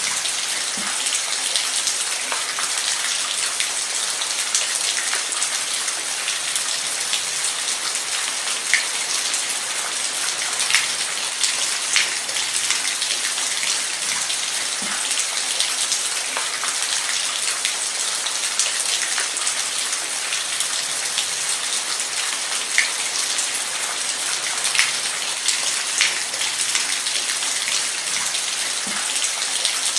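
Steady rain falling, with a continuous hiss and scattered individual drops ticking on a hard surface.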